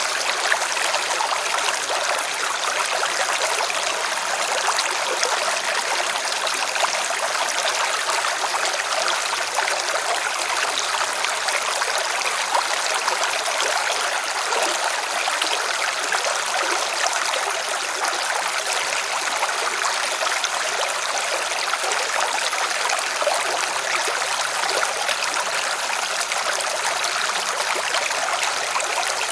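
River water splashing and rushing in a steady, even hiss, with little low rumble.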